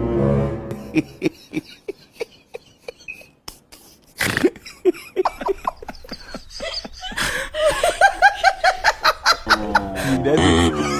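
A person laughing in short repeated bursts: choppy snickering at first, building to fuller, rhythmic laughter in the last few seconds.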